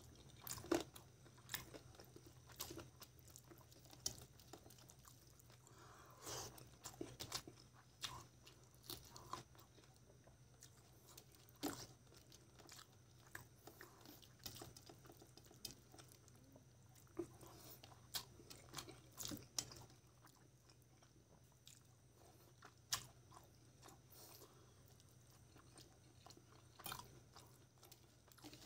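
Close-up eating sounds from a person eating rice and chicken curry by hand: soft, irregular chewing, lip smacks and mouth clicks, with fingers working the rice against a steel plate.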